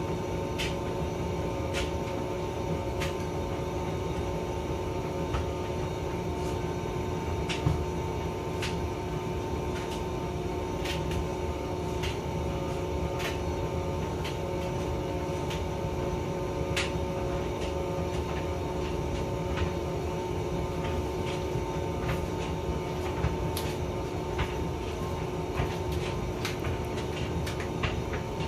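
Hotpoint vented tumble dryer running: a steady motor and drum drone with a constant hum, dotted with irregular light clicks and knocks from the turning drum.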